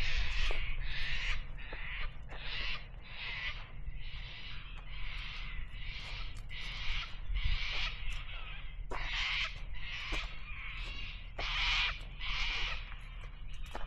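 Birds calling in the bush: a long run of short, scratchy calls, roughly two a second, with a few pauses.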